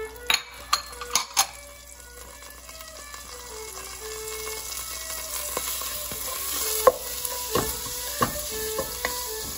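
Tom yum paste, garlic and sliced lemongrass sizzling in oil in a ceramic-lined pot, the sizzle growing louder over the first several seconds. A few sharp clicks come near the start, and from about halfway a wooden spoon stirs the mixture, knocking against the pot.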